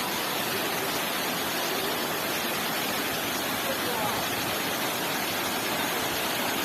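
Waterfall: a steady, even rush of falling water, with faint voices in the background.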